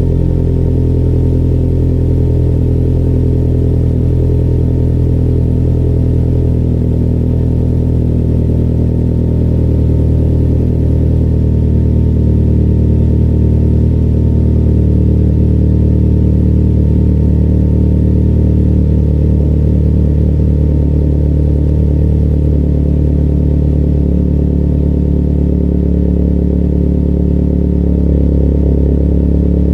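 Turbocharged 2004 Hyundai Tiburon 2.0 L four-cylinder running through an Ark DT-S V2 exhaust with the catalytic converter deleted, holding a steady engine speed with a low, even exhaust drone.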